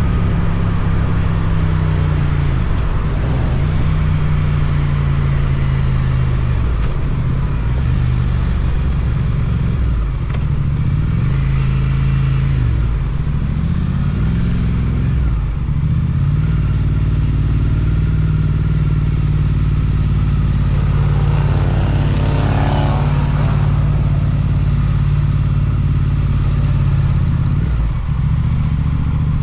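Suzuki GSX-8TT motorcycle engine through an Akrapovic exhaust while riding. The engine pitch rises and falls several times in the first half, with the revs climbing and dropping through gear changes. It then holds a steady cruise for most of the rest, dropping briefly near the end.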